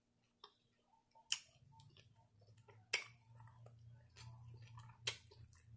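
Close-up chewing of a mouthful of salad, with scattered wet mouth clicks and lip smacks. Three sharper clicks come about a second and a half apart.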